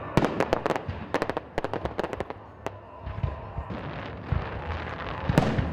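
Aerial fireworks salute: a rapid run of sharp bangs and crackles from bursting shells for about the first two and a half seconds, then a quieter stretch, with one louder bang near the end.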